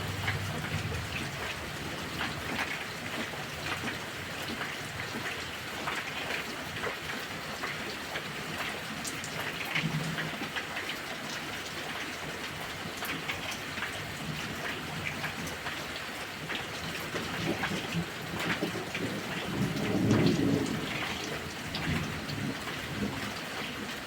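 Heavy rain falling steadily with close, pattering drops, and low thunder rumbling underneath, swelling into its loudest roll about twenty seconds in.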